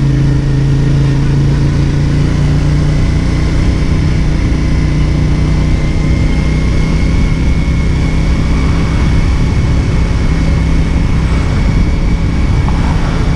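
CFMOTO 450SRS's 449 cc parallel-twin engine, with its 270° crank, running at a fairly steady speed under way. A faint high whine rises slowly through it.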